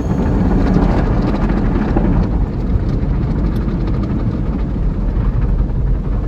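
Automatic tunnel car wash machinery working over the car, heard from inside the cabin: a loud, steady rumble.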